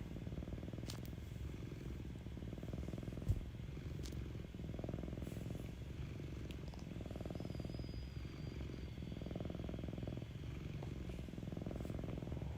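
Domestic cat purring close to the microphone: a steady low purr that swells and eases every second or two with its breathing. A brief soft knock comes about three seconds in.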